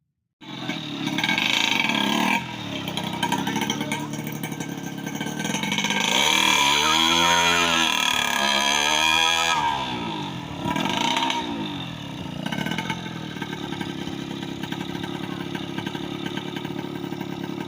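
Tuned 120cc two-stroke Yamaha F1ZR engine with a very high-compression drag-race build, revved up and down in several blips, then settling to a steady idle for the last several seconds.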